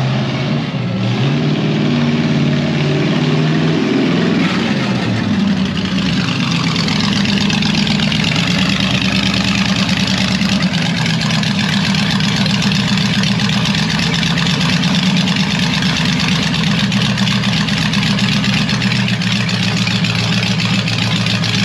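Hot rod's flathead V8 engine running, its pitch stepping up and down over the first few seconds as the throttle is blipped, then settling into a steady idle.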